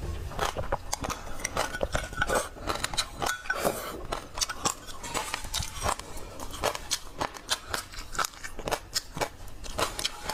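Close-miked chewing and crunching: a dense, irregular run of sharp crackling clicks from the mouth, with a few wet mouth sounds in the first few seconds.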